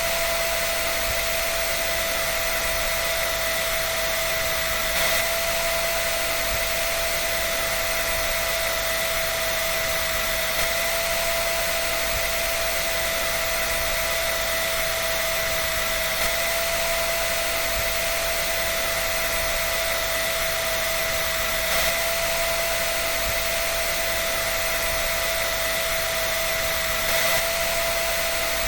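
Hair dryer running steadily: a constant rush of air with a steady high whine from the motor. A faint bump recurs about every five and a half seconds.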